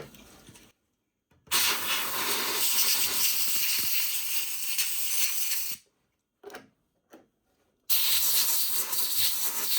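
Compressed air hissing out in two long blasts of about four seconds each, with a couple of faint clicks between them.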